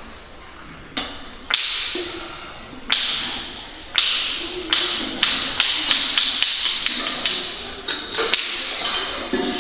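Repeated sharp strikes on a resonant struck instrument, each leaving a ringing tone. They come about a second apart at first, then speed up about halfway through to a quick run of two or three strikes a second.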